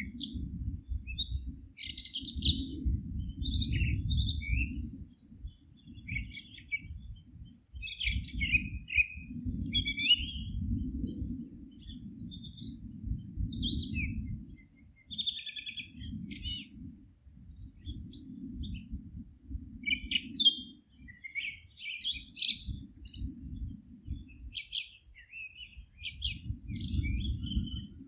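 Several songbirds singing in a forest, short chirps and trills overlapping throughout. A low rumble swells and fades underneath.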